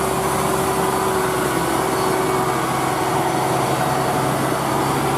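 Truck engine running steadily at an even pitch.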